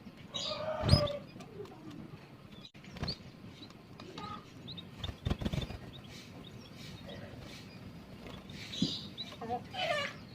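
Canaries giving short, high chirps, with wings fluttering and knocking in the cage several times: about a second in, near three seconds and around five seconds. A cluster of calls comes near the end.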